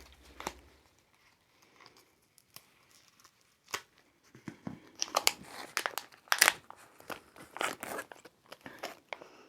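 Plastic packaging being crinkled and torn open by hand, in irregular crackles that grow busier about halfway through.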